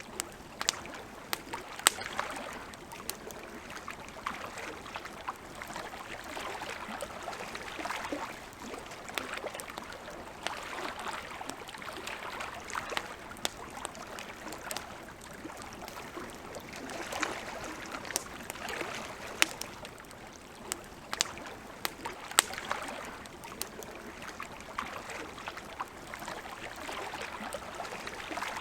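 Wood campfire crackling, with sharp irregular pops and snaps, over a soft water sound that swells and fades every few seconds, like water lapping at a lakeshore.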